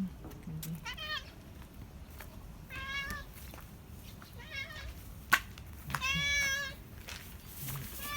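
A stray cat meowing over and over, four meows a second or two apart, the longest and loudest near the end: begging impatiently for its breakfast. One sharp click about five seconds in.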